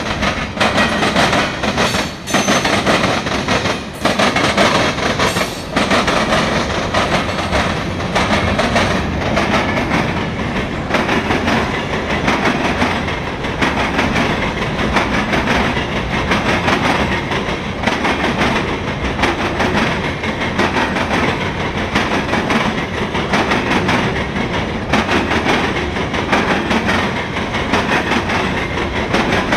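Cars of a mixed freight train rolling past at close range: a steady rumble of steel wheels on rail with a clickety-clack of wheels over rail joints. There are a few sharper knocks in the first several seconds as the cars cross switches.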